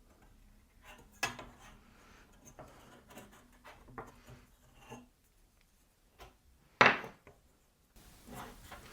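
Handling noises as a long ruler and a piece of wood are moved about: scattered light knocks and rubbing, with one sharp clunk about seven seconds in.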